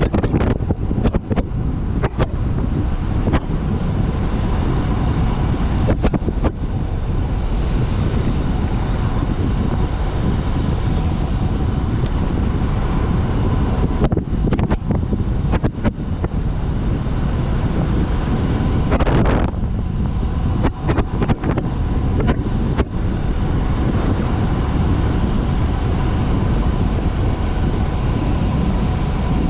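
Wind rushing over the microphone while riding a bicycle at speed downhill, a loud, steady rush that dips briefly now and then.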